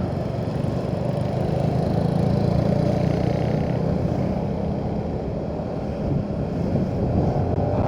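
Motorcycle engine running steadily at low road speed, with road noise, swelling slightly a couple of seconds in.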